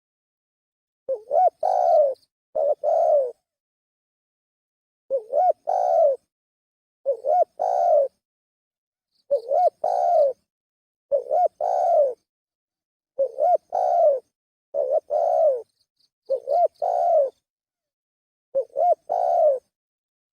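Spotted dove (tekukur) cooing: a lure call of short, repeated coo phrases, each a quick note followed by a longer one, coming about every two seconds, roughly ten times.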